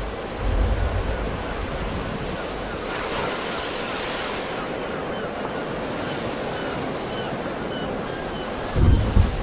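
Sea waves breaking and washing on the shore in a steady wash, swelling into a louder hiss about three seconds in. Wind buffets the microphone with low rumbles near the start and again near the end.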